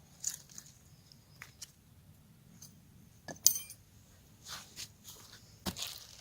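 Scattered small clinks and taps of objects being handled, with one sharp metallic clink that rings briefly about three and a half seconds in.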